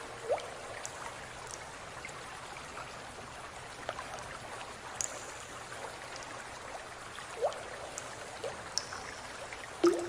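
Water running and trickling steadily, with a few short rising plinks of drops falling into water.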